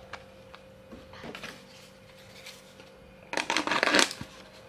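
Small kitchen knife cutting a slit into a plastic bottle: a few faint clicks, then about three seconds in a loud burst of scraping lasting about a second as the blade works through the plastic.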